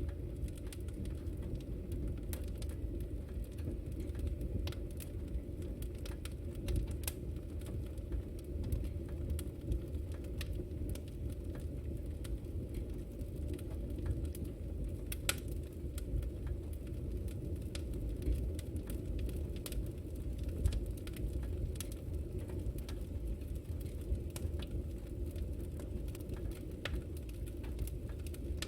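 Fireplace wood fire crackling: scattered sharp crackles and pops over a steady low rumble.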